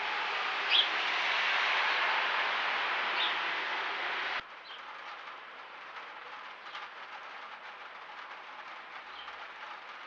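Steady hiss from a trail camera's microphone with a few short, high chirps from a small bird at the nest box, the loudest about a second in. The hiss drops sharply about four and a half seconds in.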